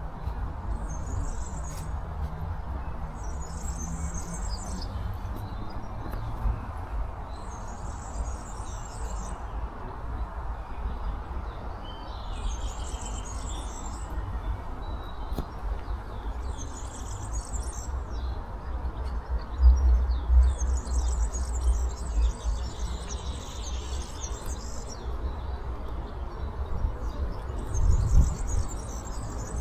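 Songbirds singing short, high phrases every two to three seconds, over a steady low outdoor rumble that swells briefly about twenty seconds in and again near the end.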